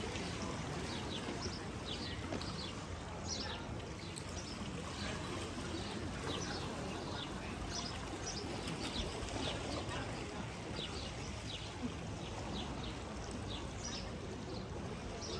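Small birds chirping, many short high calls that each drop in pitch, over a steady background rush.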